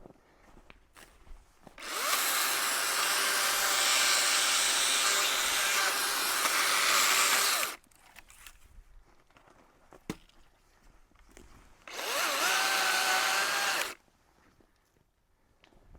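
Chainsaw cutting dead cedar stobs low to the ground: one run of about six seconds, then a shorter two-second cut near the end, each starting and stopping abruptly, with quiet between.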